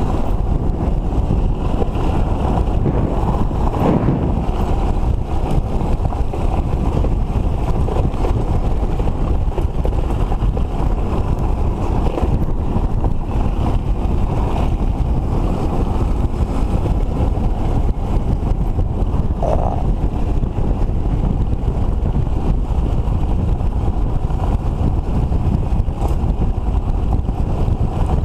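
Two-stroke motorcycle riding at speed, its engine running under heavy wind noise on the microphone, with a couple of brief rises in pitch.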